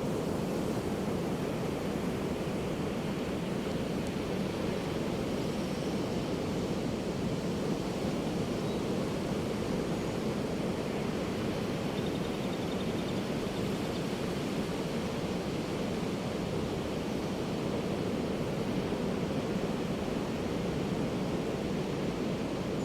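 Ocean surf: a steady, even rush of breaking waves with no distinct swells or lulls.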